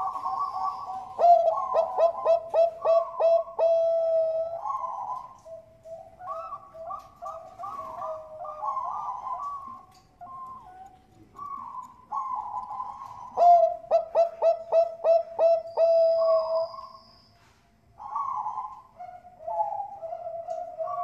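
Perkutut bangkok (zebra doves) cooing. Two bursts of rapid, evenly spaced coos come about one to four seconds in and again about thirteen to sixteen seconds in, with softer rolling coos between them.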